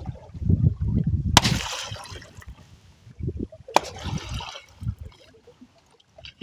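Water splashing and trickling as a fishing net is hauled up by hand beside a canoe, with two sharper splashes, about a second and a half and nearly four seconds in. Wind buffets the microphone at the start.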